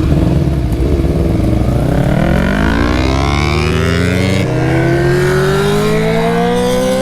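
Suzuki GSX-R750's inline-four engine accelerating hard, its pitch climbing steadily through a gear from about two seconds in.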